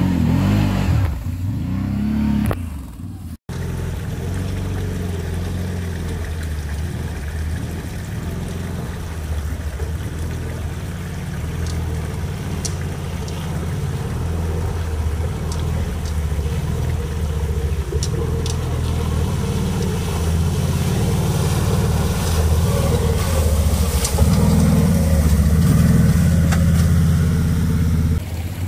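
ATV engine revving hard, then after a cut about three seconds in, an ATV engine pulling under steady throttle, getting louder near the end, with a few faint knocks.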